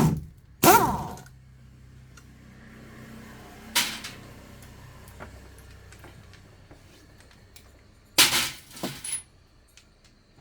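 A few separate sharp knocks and clatters, spread out with quiet between them. The second, just under a second in, rings briefly like struck metal, and a quick cluster of knocks comes near the end.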